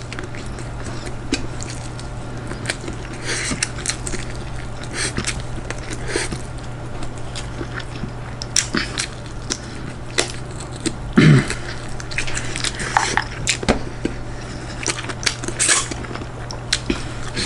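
Eating at a plate of rice and curry: scattered light clicks and scrapes of cutlery on the plate, with chewing, over a steady low hum.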